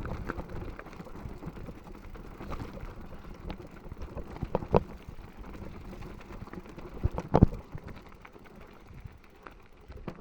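Mountain bike rolling over rough trail: a steady rumble of tyres on dirt and rock with small rattles and clicks from the bike, and two sharp knocks, one a little before halfway and a louder one about three quarters of the way in.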